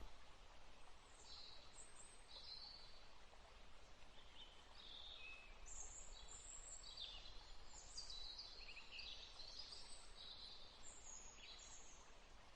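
Faint birdsong: many short, high chirps and twitters, scattered irregularly over a soft background hiss.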